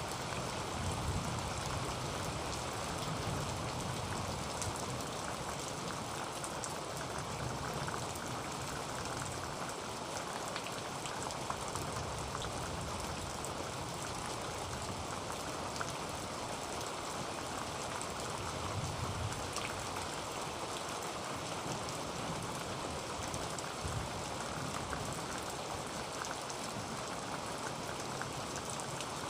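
Heavy rain falling on a tin roof: a steady, even hiss of rain with scattered sharper drop hits and a low rumble that swells and fades now and then.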